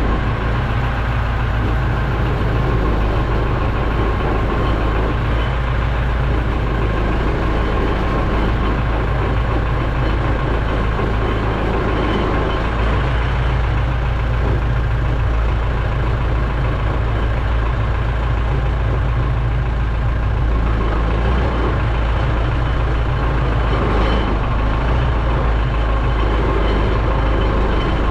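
Heavy vehicle engine running steadily with a deep low rumble.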